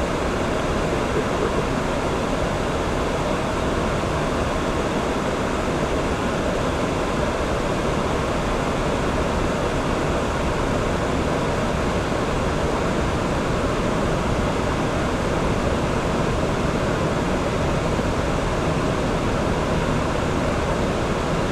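Steady, even rushing noise on the flight deck of an Airbus A340 in descent, with no tones or knocks standing out.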